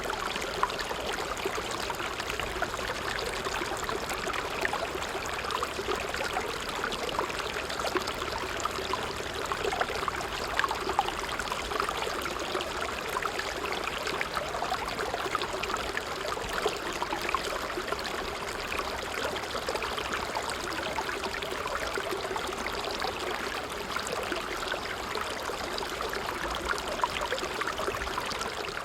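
Small creek flowing steadily, its water trickling and splashing without pause.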